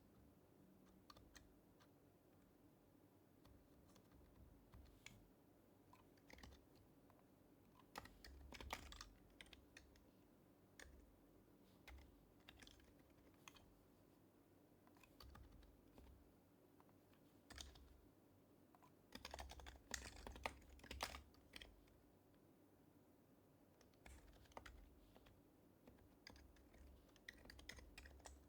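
Faint typing on a Happy Hacking Keyboard Professional HYBRID Type-S with silenced Topre switches: single keystrokes and short runs of several keys, broken by pauses of a few seconds.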